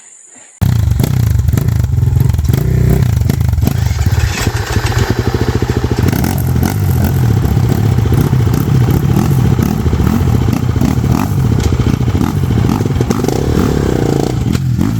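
Dirt bike engine running hard on a rough trail, with rattling and knocks over it; it starts abruptly about half a second in, and the engine pitch rises shortly before the end.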